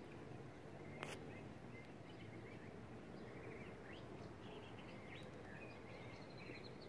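Faint small birds chirping over a steady background hiss, with one sharp click about a second in.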